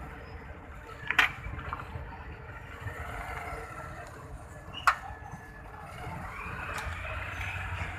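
Road traffic noise: a steady rumble of vehicles, broken by two sharp knocks, one about a second in and one near the middle.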